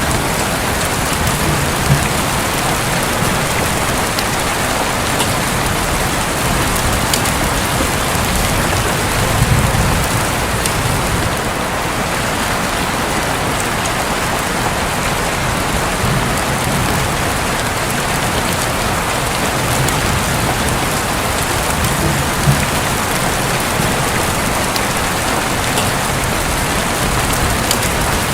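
Heavy rain beating steadily on a roof, with sharp drop ticks here and there and low rumbles of distant thunder now and then.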